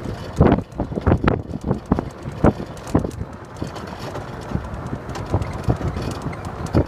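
Child's electric ride-on car driving, with irregular knocks and bumps as it rolls, and wind on the microphone.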